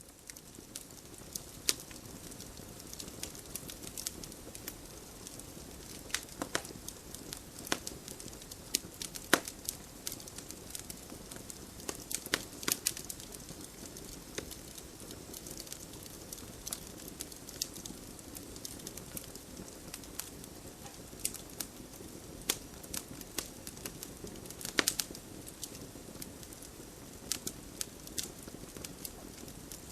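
Wood fire crackling in a fireplace: a steady low rustle of burning logs, broken by irregular sharp pops and snaps, a few of them louder.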